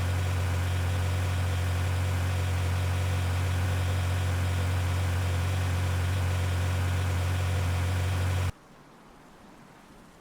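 Vehicle engine idling with a steady low hum, cutting off abruptly about eight and a half seconds in and leaving faint hiss.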